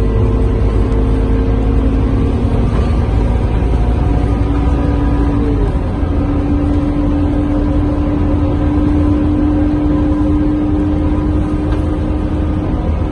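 Scania K230UB city bus heard from inside the cabin while under way: the five-cylinder diesel engine and running gear make a steady low rumble, with a whine that steps up in pitch about four seconds in and then holds.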